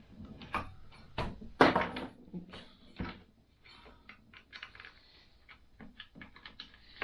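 Scattered clicks and light metallic knocks of hand tools and motorcycle parts being handled, with one sharper knock about a second and a half in and a run of quick light ticks near the end.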